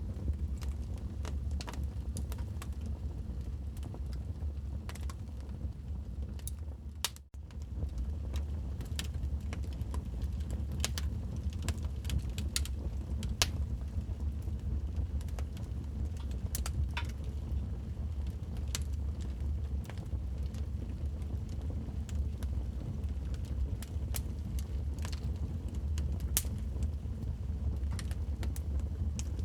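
Wood fire crackling in a fireplace: irregular sharp pops and snaps over a steady low rumble, with a brief drop-out about seven seconds in.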